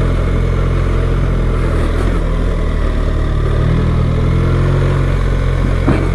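BMW R 1300 GS boxer-twin engine running at fairly steady, moderate revs while the bike is ridden on a dirt road, with one short knock near the end.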